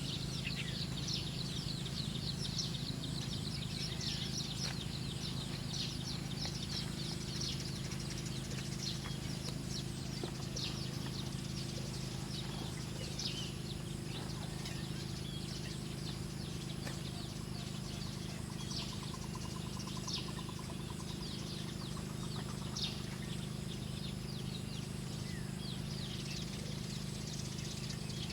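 Wild birds chirping, with many short, quick high calls throughout, over a steady low hum and a faint, steady high-pitched whine.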